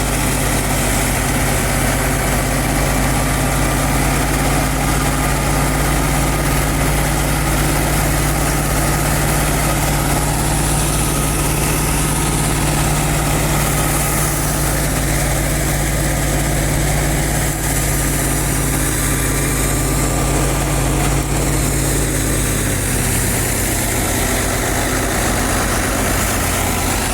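Fiat 640 tractor's four-cylinder diesel engine running steadily. Its note changes about four seconds before the end.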